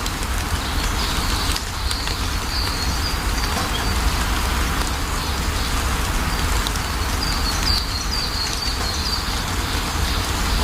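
Steady rain falling, with a low rumble beneath it. Birds chirp briefly a couple of seconds in and again in a short run of chirps near the end.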